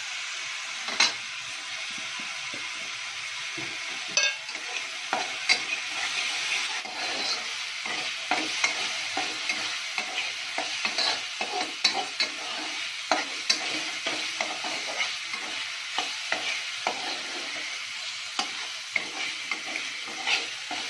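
Ground mustard, cumin and garlic paste sizzling in hot oil in an aluminium kadai, being fried until it no longer tastes raw, with a steady sizzle. A spatula stirring and scraping the pan makes frequent sharp clicks over the sizzle.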